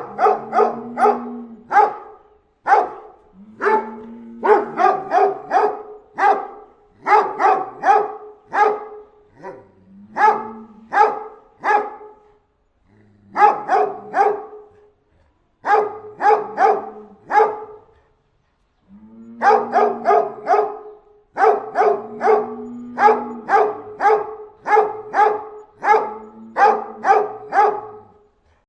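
A dog barking in repeated quick bursts of two to five barks, with short pauses between the bursts.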